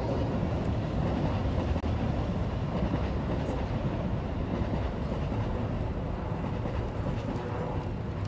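Kintetsu electric train running, a steady noise of wheels on rail with no clear change in speed.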